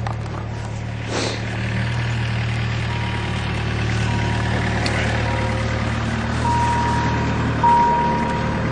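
A vehicle engine runs steadily at idle and shuts off near the end. An electronic warning chime beeps repeatedly from about three seconds in, each beep growing longer.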